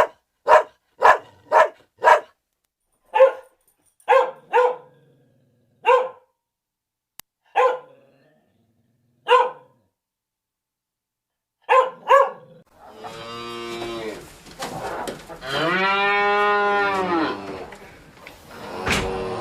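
A dog barking in short single barks, about a dozen with pauses between them, over the first twelve seconds. Then a cow mooing in long drawn-out calls, the loudest rising and falling over about two seconds, with another starting near the end.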